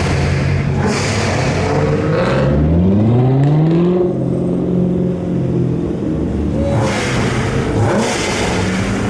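Supercar engines driving past. A little over two seconds in, one engine revs up, its pitch climbing, then holds steady. There is a rushing sound of cars going by near the start and again near the end.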